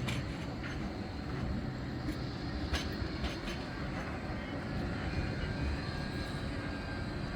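Tram running along the street track: a steady low rumble with a few sharp clicks.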